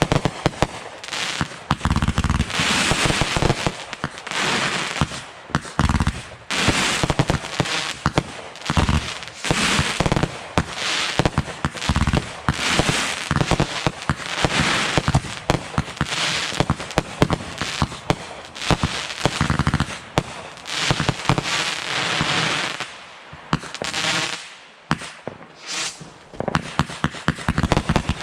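Fireworks going off continuously: a dense run of bangs, quick crackling pops and louder booms, with hardly a pause.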